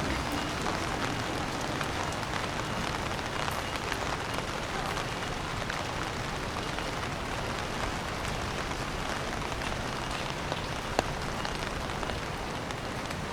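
Steady rain falling, with many small drop ticks throughout and one sharper tick about eleven seconds in.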